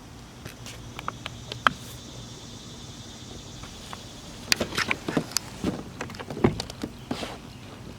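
Irregular knocks and rattles of gear being handled in a kayak, sparse at first and then a quick cluster of louder ones about halfway through, over a faint steady insect buzz.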